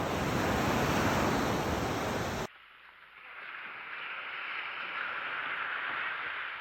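Ocean surf and wind noise, broad and steady, cut off abruptly about two and a half seconds in, followed by a quieter, steady rush of water.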